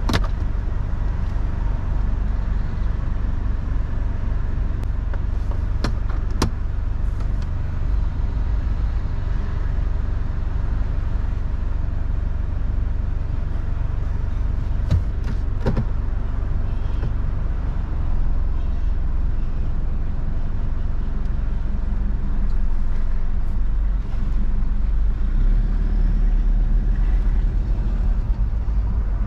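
Four-wheel-drive engine running with a steady low rumble as other vehicles pass. It grows a little louder near the end as the vehicle pulls away, and there are a few brief clicks.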